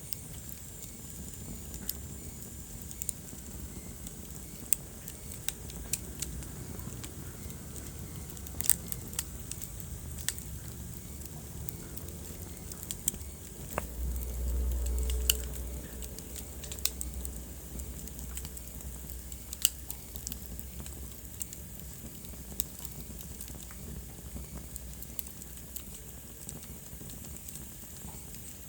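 Wood fire in a fireplace crackling, with sharp pops at irregular intervals over a steady low rumble of flame. A louder low rumble swells for about two seconds near the middle.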